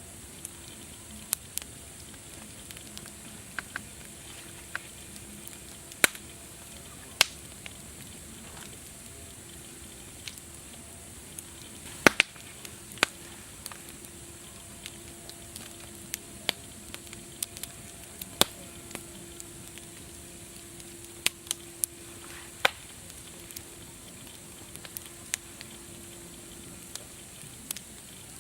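Wood fire crackling: irregular sharp pops and snaps, a few much louder than the rest, over a steady soft hiss.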